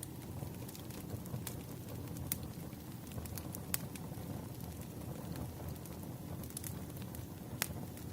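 Wood fire burning, with a steady low rumble and scattered sharp crackles and pops from the logs, the loudest near the middle and near the end.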